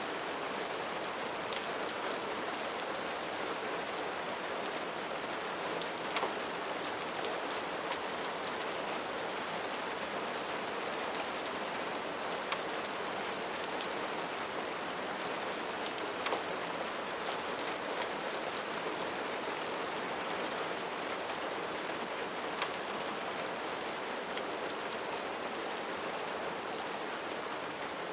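Steady rain falling, an even hiss of rain on a surface, with a few sharper clicks standing out now and then.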